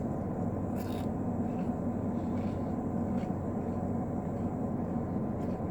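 Steady low hum of a car idling, heard inside the cabin.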